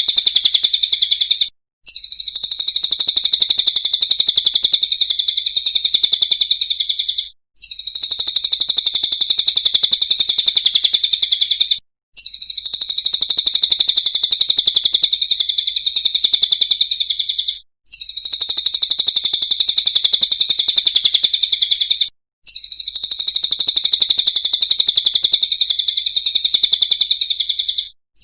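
Recorded songbird song played as a masteran training track for a cendet: a very fast, dense, high trill in phrases of about five seconds, each broken by a short silence, repeating over and over like a loop.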